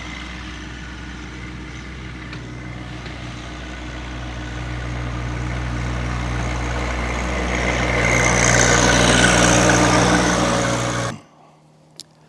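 John Deere 2025R compact tractor's three-cylinder diesel engine running steadily, growing louder with added hiss over the second half, then cut off abruptly near the end.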